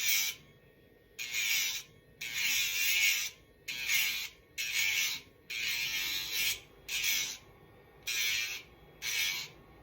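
Electric pet nail grinder sanding a dog's nails in about eight short passes, each a burst of grinding noise under a second long, the small motor's whine dipping in pitch as the sanding drum bears on the nail.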